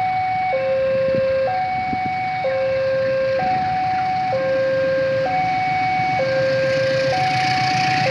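Railway level-crossing warning alarm sounding a two-tone signal, a higher and a lower tone alternating about once a second, warning that a train is approaching. A low rumble grows beneath it near the end.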